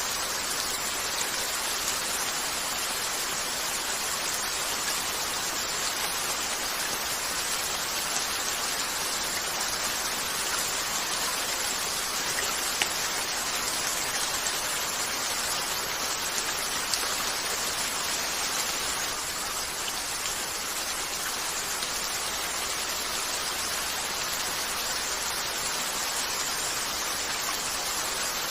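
Steady gentle rain falling on a window, with a few faint sharp crackles from a fireplace.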